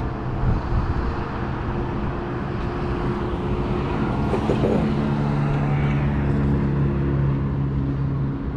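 Steady hum of a motor vehicle engine running, over general city street noise; the pitch of the hum shifts about four seconds in.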